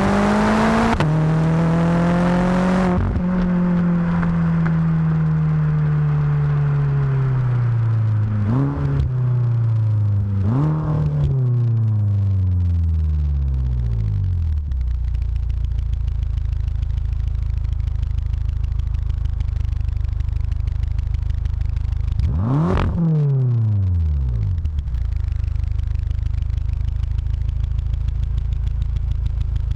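BMW F10 M5's twin-turbo V8 through a Supersprint aftermarket rear-muffler exhaust. The engine is held at high revs, then slowly winds down with two short throttle blips and settles into a steady idle. About two-thirds of the way through, a single sharp rev blip rises and falls back to idle.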